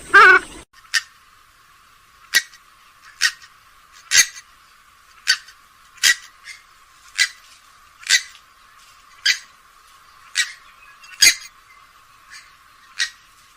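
Grey-headed swamphen calling: one harsh, pitched call at the start, then a series of short, sharp notes about once a second that grow fainter near the end. The notes sound thin, with no low end.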